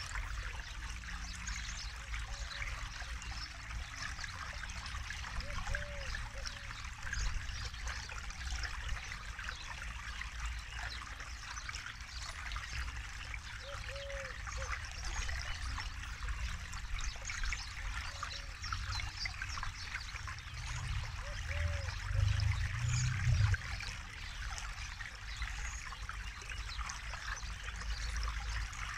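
Forest river flowing steadily, a continuous babble of running water over a low rumble that swells briefly about three-quarters of the way through. A faint short low call recurs about every eight seconds.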